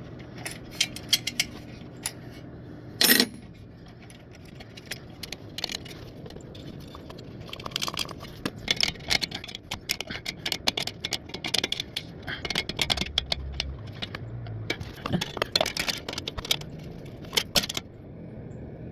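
Metal wrench clicking and clinking against small bolts on a lawnmower engine as they are fitted and tightened, in quick clusters of clicks, with one louder metal clank about three seconds in.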